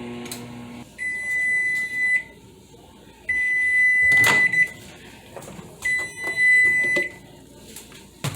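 Nostalgia retro microwave's running hum stops under a second in, and then it sounds three long, steady, high beeps: the cooking cycle has finished. A sharp clack comes partway through the second beep.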